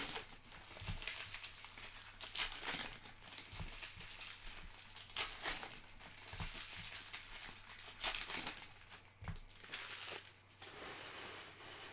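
Plastic wrapping on trading-card packs and boxes crinkling and tearing in repeated handfuls as it is ripped open by hand, with a few soft knocks from handling.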